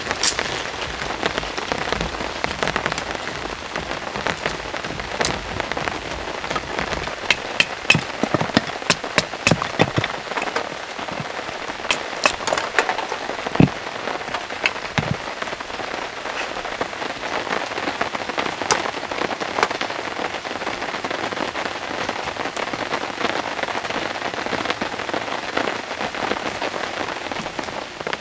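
Steady rain falling, with many loud separate drops striking a nearby surface; the drops come thickest between about 7 and 13 seconds in.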